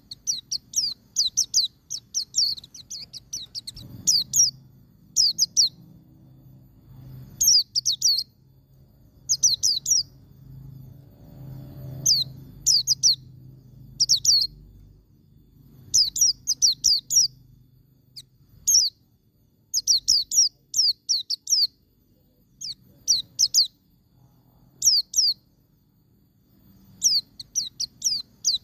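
White-eye (pleci) singing its 'ngalas' song: short, fast bursts of high, downward-sliding chirps, phrase after phrase with brief pauses between them.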